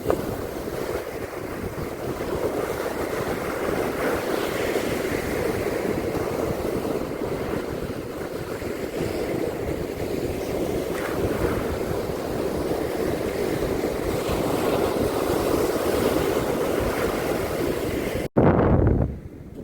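Steady surf washing on a beach, with wind rumbling on the microphone. Near the end the sound cuts out for an instant, then a short loud gust buffets the microphone.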